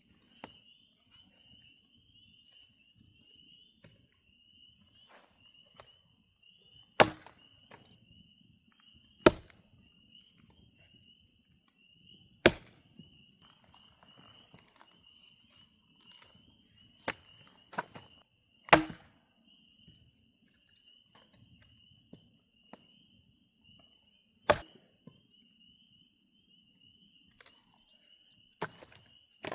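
A series of about eight sharp blows a few seconds apart, with a quick double strike in the middle, like a tool striking wood during camp work. A steady high buzz runs underneath.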